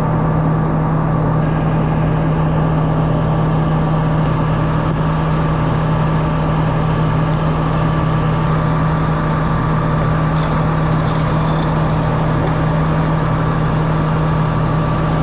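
Combine harvester's engine running steadily, a constant loud drone with a strong low hum. A few faint light metallic clicks come about two-thirds of the way through.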